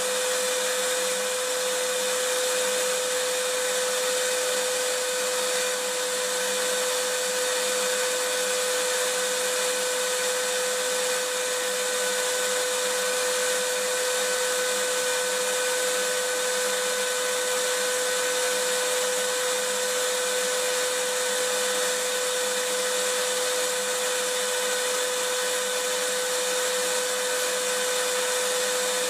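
Vacuum cleaner running steadily, its motor giving a constant whine under an even rush of air.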